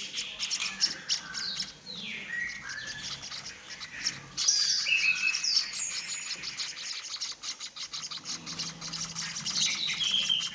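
Hand-fed bird chicks chirping busily while being fed porridge. The sound is a dense run of rapid high clicks, mixed with short calls that slide down in pitch, typical of nestlings begging for food.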